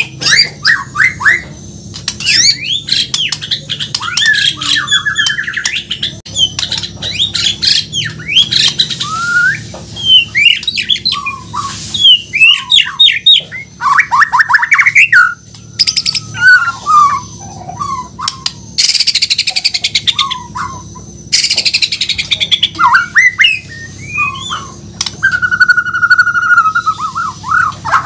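White-rumped shama (Bornean murai batu) singing a varied song of quick whistled phrases, trills and chirps, broken by two harsh rasping bursts in the second half, and ending on a long steady whistle.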